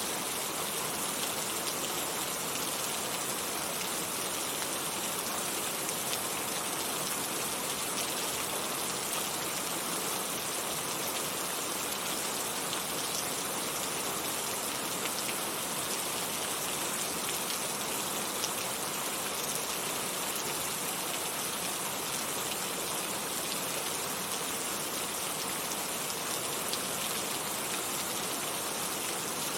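Heavy rain falling steadily, an even hiss of many drops with faint scattered taps on surfaces.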